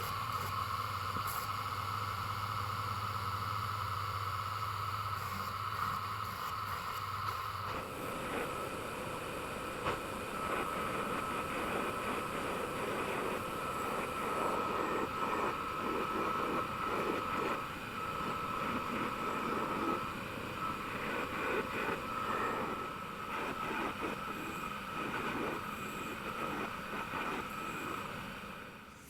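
A workshop machine runs steadily with a constant whine. About eight seconds in the sound changes abruptly, and light irregular knocks and scrapes ride over it.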